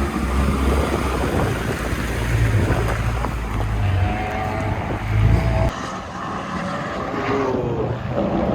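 Race car engines running on a track, heard under wind buffeting the microphone; the low rumble cuts off suddenly about two-thirds of the way through, leaving the faint engine note of cars on track.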